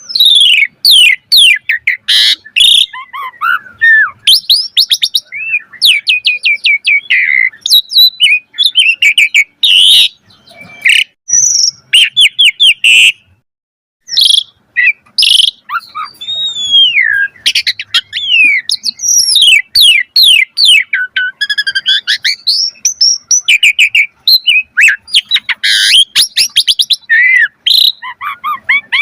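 Asian pied starling (jalak suren) singing a long, varied song of loud whistles, rapid chattering runs and sliding notes, with a brief pause about fourteen seconds in.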